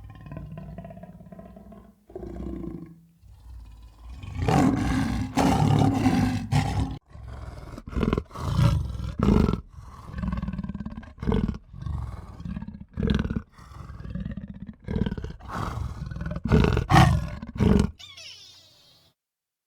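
A large animal's loud roaring calls, repeated in short bursts.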